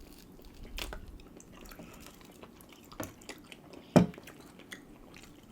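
People chewing and eating at the table, with scattered small clicks and a few sharper knocks, the loudest about four seconds in.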